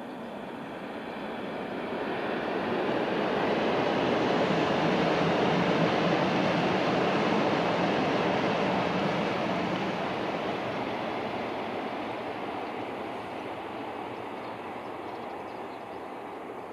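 Shinkansen high-speed train passing at speed: a rushing noise that builds over a couple of seconds, holds for several seconds, then slowly fades away.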